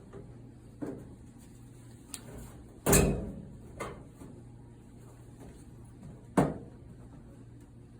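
Four knocks and clunks of the clothes dryer's parts being handled during repair work, the loudest about three seconds in, over a faint steady hum.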